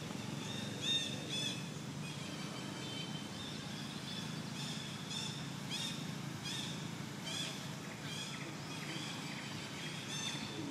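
Birds chirping: short, arched high calls repeating about once or twice a second, over a steady low background rumble.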